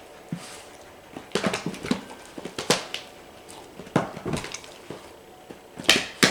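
A dog's feet tapping and scuffing irregularly as it steps about, trying to get into a box.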